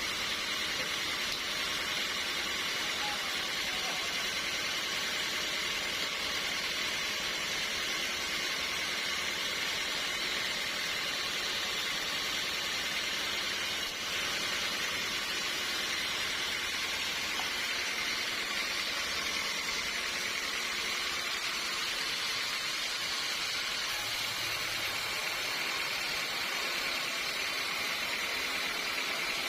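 Sawmill machinery running, a steady hissing mechanical noise with a brief dip about fourteen seconds in.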